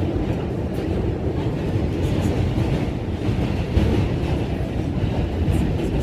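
New York City subway D train car in motion, heard from inside the car: a steady low rumble with faint clicks and rattles from the wheels on the track.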